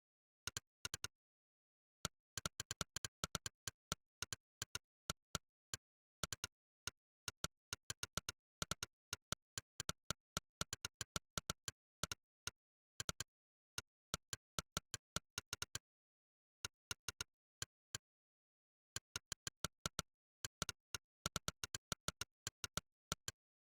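Monkeytype's "click" typing sound effect, one short sharp click per keypress, coming in quick runs of several clicks a second with brief pauses between words and phrases, and dead silence between the clicks.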